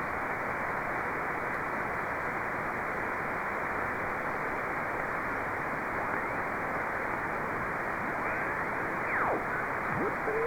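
Steady hiss from a ham radio receiver tuned in single sideband to the RS-44 satellite downlink. The hiss cuts off above the voice range. Near the end a few thin whistles slide down and up in pitch through the noise.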